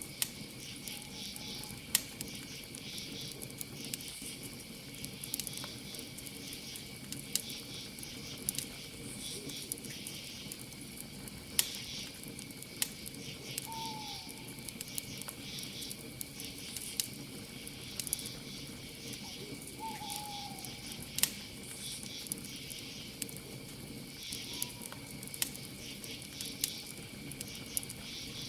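Campfire crackling with frequent sharp pops of burning wood, the loudest about 2, 12 and 21 seconds in, over a steady high chirring of crickets. A night bird gives a couple of short downward-sliding calls around the middle.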